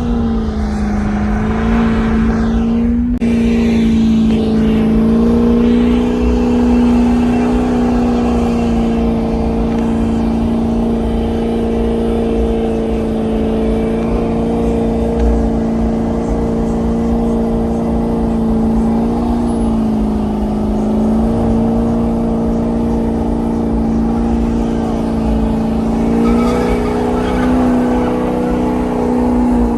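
A vehicle engine held at high, steady revs for almost half a minute, its pitch dipping briefly near the start and again about twenty seconds in, then dropping away at the very end.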